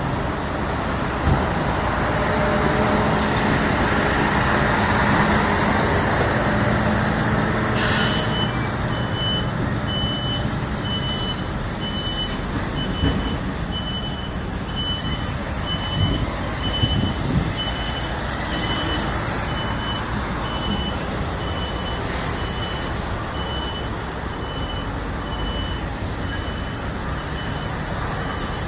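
Steady running of a heavy truck. About eight seconds in, a high electronic beep starts repeating evenly, roughly once a second, and keeps going almost to the end.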